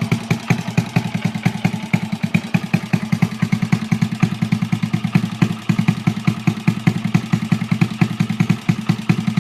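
Honda Chaly minibike's Wave 100 four-stroke single-cylinder engine idling steadily with an even, regular beat; the idle is smooth and stable.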